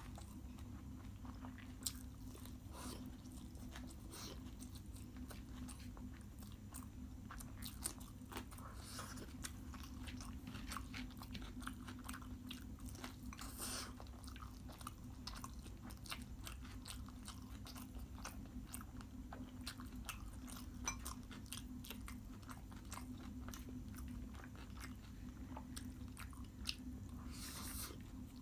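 Close-up chewing and mouth sounds of a person eating rice and noodles by hand, with scattered soft clicks and crunches, over a steady low hum.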